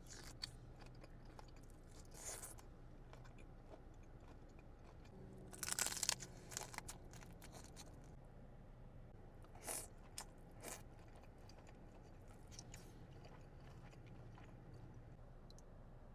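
Close-up eating sounds: crunchy bites and chewing come in scattered short bursts, the loudest cluster about six seconds in, over a faint steady low hum.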